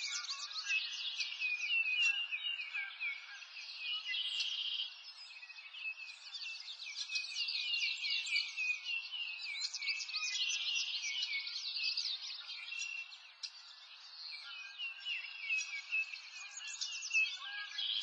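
A dense chorus of birds chirping and trilling, a continuous overlapping run of quick high chirps. It dips quieter for a while around a quarter of the way in and again about three quarters through.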